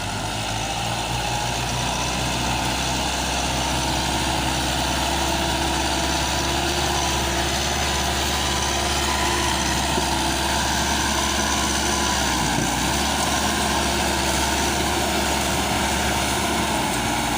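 Massey Ferguson 385 tractor's four-cylinder diesel engine running steadily, getting a little louder over the first few seconds.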